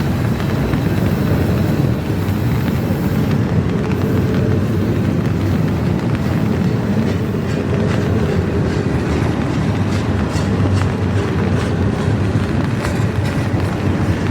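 Long, slow intermodal freight train rolling past: a steady rumble of steel wheels on rail, with sharp clicks of wheels over rail joints coming more often in the second half.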